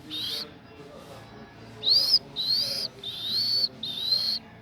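High-pitched animal calls, short shrill whistles that rise and then dip: one at the start, then four in a quick series from about two seconds in.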